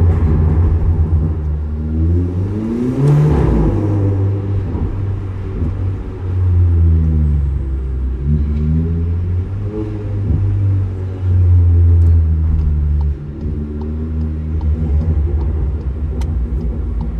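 Engine and exhaust of a Stage 2+ tuned Seat Leon FR revving up and easing off several times, with a sharp crackling burst from the exhaust about three seconds in and a few faint pops later, typical of a pops-and-bangs tune. It echoes off the concrete of an underground car park.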